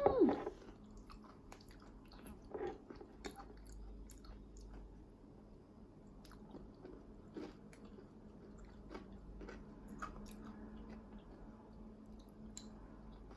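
Chewing yogurt topped with crunchy granola and coconut: scattered small crunches and clicks every second or so.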